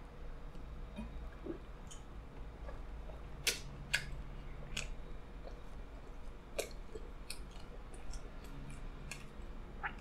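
Close-up mouth sounds of a man chewing a large mouthful of pizza: faint wet chewing with scattered sharp clicks, the loudest about three and a half and four seconds in.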